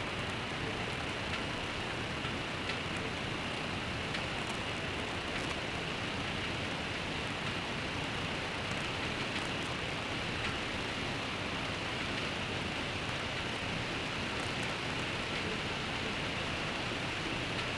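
Steady rainfall: an even hiss of rain with scattered faint ticks of drops.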